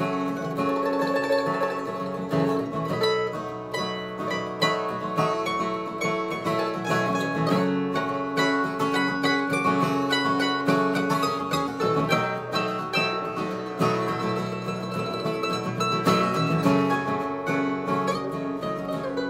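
Acoustic instrumental break on plucked strings: a guitar with a quick picked lead line over it, with no singing.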